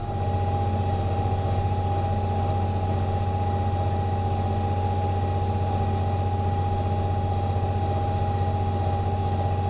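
Farm tractor's diesel engine running steadily under load, heard from inside the cab as a low, even drone with a steady high whine over it. It gets slightly louder at the start and then holds constant.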